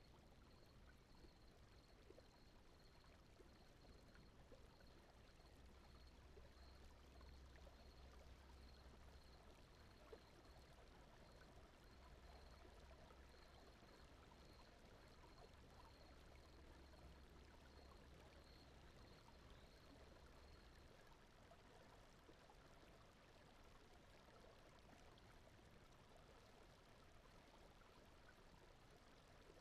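Faint, steady, stream-like rush of brown noise used as a sleep sound bed, with a faint low hum that stops about two-thirds of the way through.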